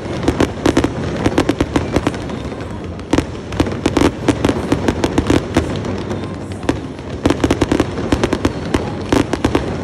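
Fireworks going off: clusters of rapid, sharp crackling pops over a steady low rumble.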